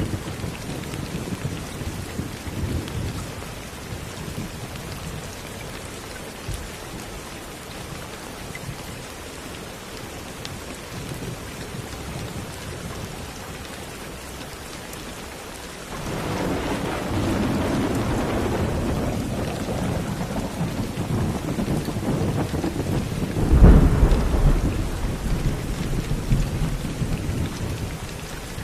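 Steady rain with thunder. A low rumble dies away over the first few seconds; about sixteen seconds in a new roll of thunder begins suddenly, peaks in its loudest clap about three-quarters of the way through, then rumbles on and fades near the end.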